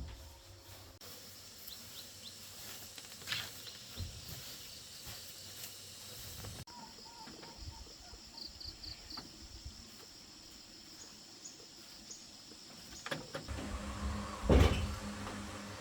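Quiet background ambience with scattered faint clicks and a short run of faint high chirps. Louder knocks and a steady low hum come in near the end.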